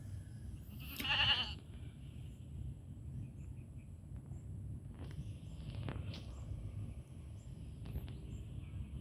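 A goat bleats once, a short quavering call about a second in, over steady low background noise.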